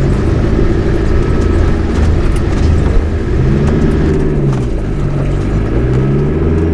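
Four-wheel drive's engine running at low speed, its revs rising and falling a few times from about halfway through as it is eased over a rough, shallow river crossing.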